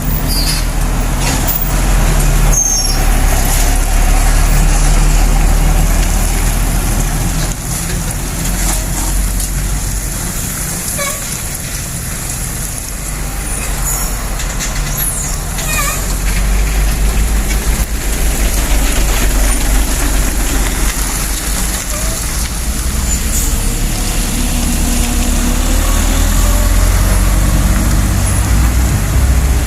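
Diesel engine of an overloaded sugarcane truck with trailer pulling hard up a steep hill, a heavy low rumble that grows louder in the second half.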